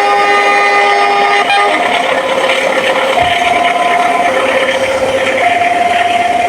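Train horn sounding a held chord of several notes that cuts off about a second and a half in. It is followed by a two-tone electronic warning alarm stepping between a lower and a higher note about once a second, over the rushing noise of the passing train.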